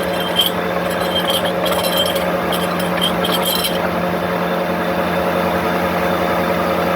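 Sawmill machinery running with a steady hum, with an intermittent high-pitched rasping and clinking for about the first four seconds that then stops, leaving the hum.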